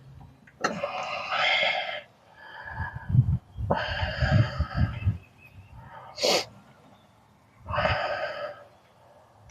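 Three bursts of squeaking as metal parts are worked loose on the A/C compressor. A sharp click comes about four seconds in and another just past six seconds, with low thuds in the middle.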